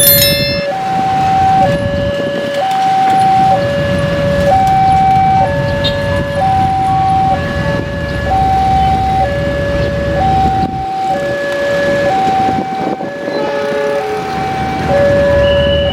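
Two-tone hi-lo emergency siren alternating steadily between two notes, each held about a second, over a low engine-like rumble.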